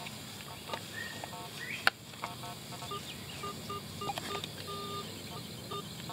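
Metal detector giving short repeated beeps, with one longer tone near the five-second mark, as it is swept over a target in a hole full of iron. A single sharp knock about two seconds in is the loudest sound.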